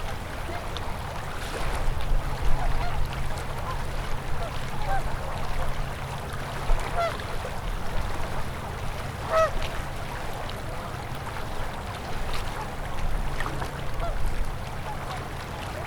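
Flowing river water, with waterfowl giving short scattered calls throughout and a louder call about halfway through, over a steady low hum.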